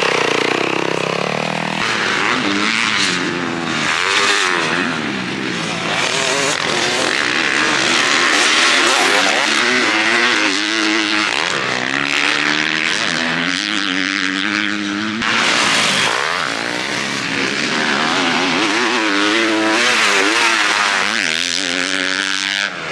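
Motocross dirt bike engine revving hard as the bike is ridden around the track, its pitch climbing again and again and dropping between climbs, as it accelerates and shifts or backs off.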